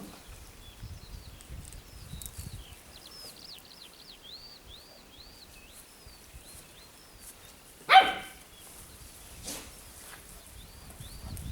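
A dog gives one sharp, loud bark about eight seconds in. Before it there is a quick run of faint, high chirping calls.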